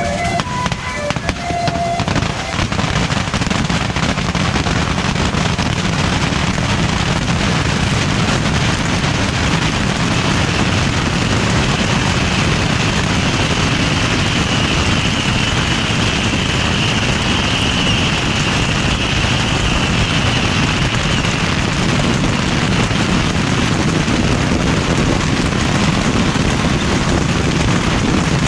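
Bottle rockets fired en masse from a beehive rocket rack, a dense, continuous barrage of crackling pops and bangs. A high, hissing whistle rises over the barrage through the middle part.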